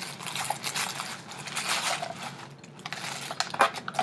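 Gift packaging and a small ornament being handled: rustling with a run of light clicks and clinks, and a couple of sharper clicks near the end.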